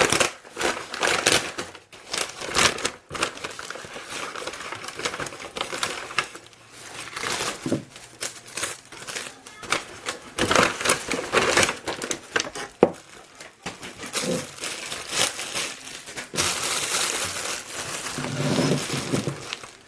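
Packaging crinkling and rustling in irregular handfuls, with sharp crackles, as parts are dug out of a box of engine parts.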